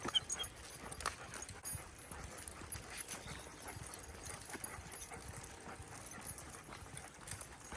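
Footsteps and dogs' paws on a walking path as a pack of leashed dogs is walked, with a running patter of small clicks and ticks.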